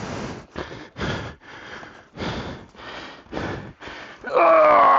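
A man panting hard, quick loud breaths about two a second, out of breath from exhaustion; near the end a long strained groan, the loudest sound.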